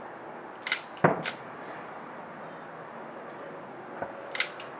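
Distant fireworks going off: a few sharp bangs and pops, the loudest about a second in, and another short cluster near the end.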